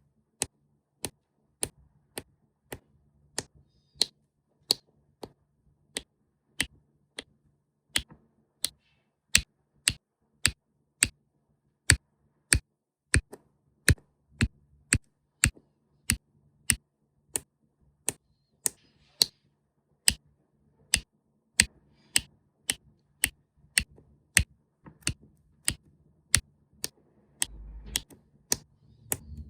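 Diamond-painting diamonds being tapped onto the adhesive canvas one at a time, each placement a sharp click, at a steady pace of about three clicks every two seconds over a faint low hum.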